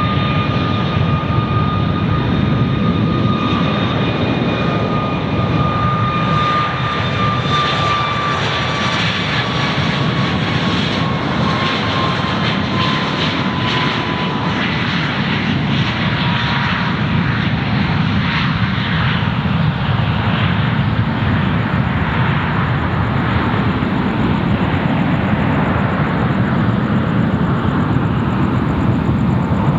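Airliner's jet engines running steadily and loud, with a high whine that slowly falls in pitch over about twenty seconds as the aircraft moves past.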